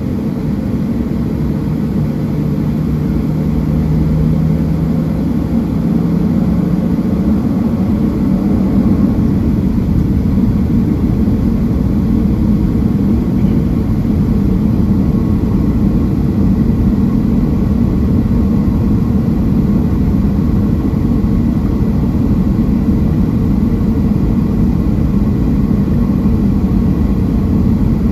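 Jet engine and airflow noise of a Boeing 737-700 heard inside the cabin: a loud, steady rumble. A low hum climbs slightly in pitch and the noise grows a little louder over the first several seconds, then holds steady.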